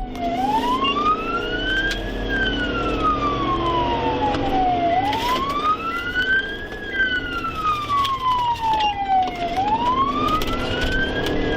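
Police car siren on a slow wail, rising for about two seconds and falling for about three, about every four and a half seconds. A pursuing patrol car's engine and road noise sit underneath.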